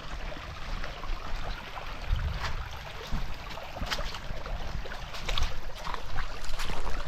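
Footsteps crunching irregularly on a stony dirt track, with a low rumble of wind on the microphone.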